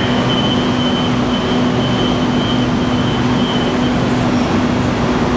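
Double-deck Sydney Trains electric train standing at an underground platform with its doors open, its onboard equipment giving a steady hum and whir. A faint high tone comes and goes over the hum.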